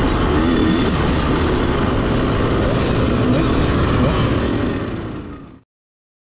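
A 65cc two-stroke motocross bike's engine running under changing throttle, its pitch wavering up and down, mixed with wind rush on the mounted camera's microphone. It fades slightly and then cuts off abruptly about five and a half seconds in.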